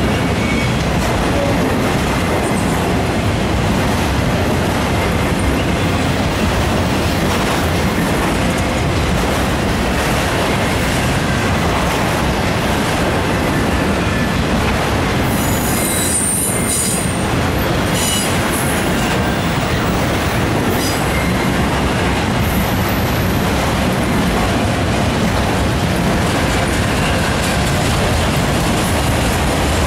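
Autorack freight cars of a Norfolk Southern train rolling past: a steady, loud rush of steel wheels on the rails, with brief high-pitched wheel squeals about halfway through.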